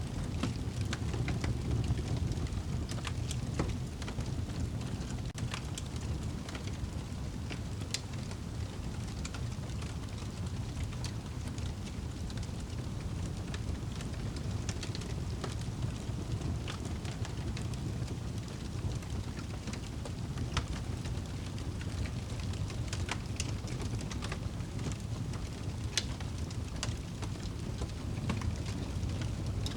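Wood fire burning in a fireplace: a steady low rush of flame with scattered, irregular sharp crackles and pops.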